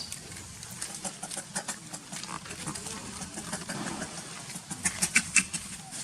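Monkeys making short squeaks among many scattered clicks and rustles, with a quick cluster of sharper sounds about five seconds in.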